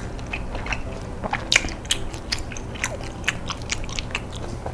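Close-miked chewing of seblak, soft boiled kerupuk crackers in spicy sauce, with many quick wet mouth clicks and smacks.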